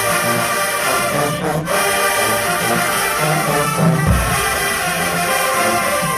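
HBCU marching band's brass section playing loud held chords, trombones and trumpets together.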